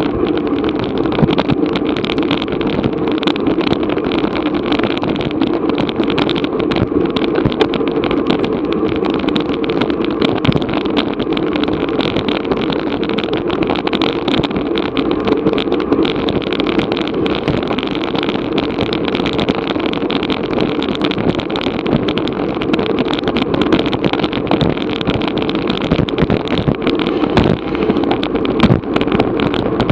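Steady rush of wind over a bicycle-mounted action camera's microphone, mixed with tyre and road noise while riding at race speed.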